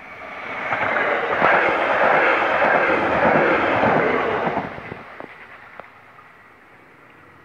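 Eurobahn Stadler FLIRT electric multiple unit passing close by: a rush of wheel-on-rail noise that swells within the first second, holds for about four seconds, then fades, with a couple of sharp clacks as the last wheels go by.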